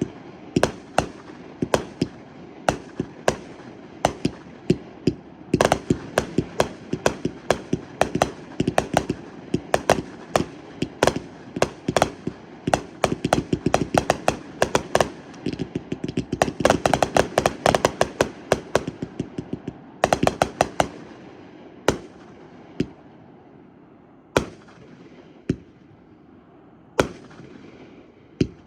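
New Year fireworks going off: a rapid run of sharp bangs and crackles over a low rumble of more distant explosions, densest through the middle. Near the end it thins to single bangs a second or two apart.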